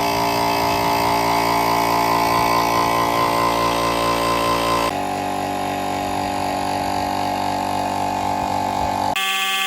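Restored PONY 2 HP direct-drive piston air compressor running steadily, its motor and pump giving a low pulsing hum under a steady whine. The sound shifts abruptly about five seconds in.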